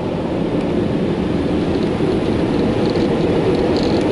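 Onboard blower dryer of an Istobal in-bay automatic car wash running steadily, heard from inside the car as a constant rush of air over the body during the drying pass.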